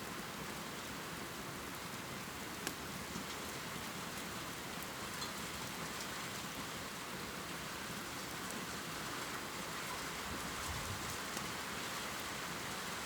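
Steady heavy rain pouring, with the occasional sharp tap of a single drop hitting a surface.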